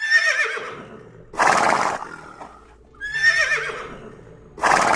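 Horse whinnying: a short, wavering high-pitched call, followed about a second later by a loud breathy rush of air. The pair of sounds comes twice.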